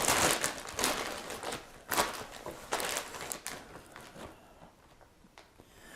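Crinkling of a Cheetos snack bag as it is opened and handled, a scatter of sharp crackles through the first four seconds that die down to nearly quiet near the end.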